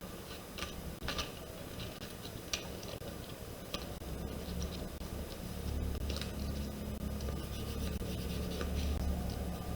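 Light taps, scratches and rubbing of paper and cardstock pieces being handled and pressed into place. A steady low hum comes in about halfway.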